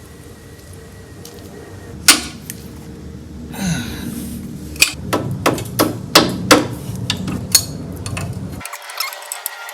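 Hammer striking metal: one sharp ringing hit about two seconds in, then a quick run of six or so more. The blows are meant to shock rusted fasteners loose on a Type 4 VW engine.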